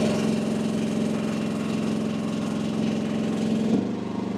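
AGT WH12R mini excavator engine running steadily while the boom hydraulics are held deadheaded against the relief valve for a pressure reading. Near the end the engine sound abruptly drops to a lower pitch.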